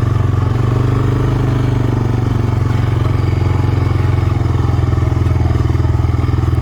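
Four-wheeler (ATV) engine running steadily at a constant speed, with a low, even putter.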